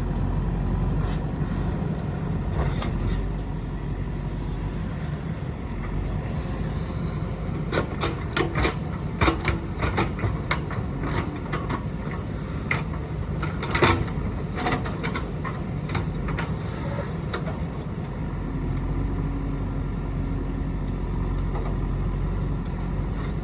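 JCB 3DX backhoe loader's diesel engine running steadily, with a cluster of sharp clanks and knocks in the middle, the loudest at its end.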